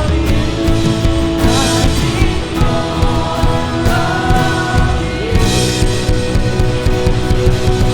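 Worship band music in a rock style, with drums and guitars under a singing voice.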